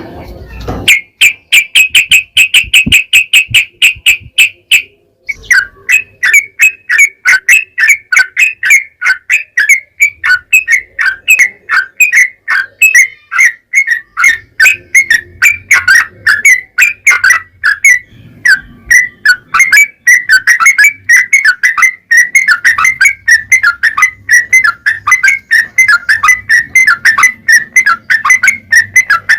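Yellow-vented bulbul (trucukan) singing a long run of rapid repeated chirps. A fast, even trill opens, breaks off briefly about five seconds in, then continues as a steady stream of quick downward-sweeping notes.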